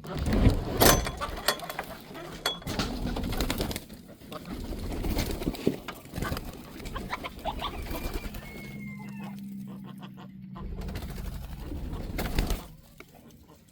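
Birds making soft cooing calls, mixed with scattered knocks and rustling.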